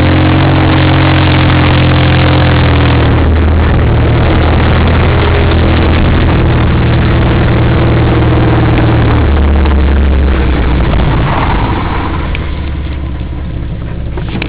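Holden Jackaroo 4WD's engine running loud, heard from inside the cab while driving. Its note steps lower twice, then the sound eases off near the end as the engine slows.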